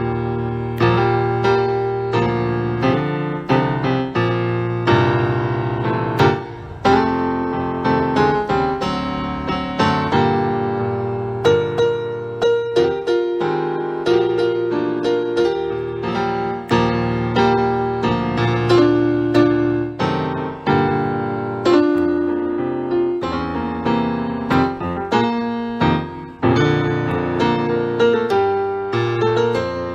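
Piano music: notes and chords struck one after another and left to ring out.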